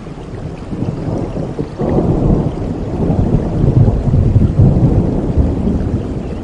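Thunder rumbling through a rainstorm. The rumble builds, swells sharply about two seconds in and is loudest past the middle.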